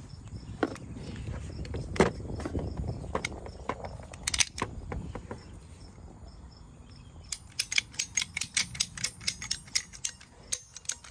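Light clicks, knocks and rattles of hands and tools working on an engine's rubber vacuum hoses and their fittings. Scattered knocks at first, then a quick, irregular run of small clicks from about seven seconds in.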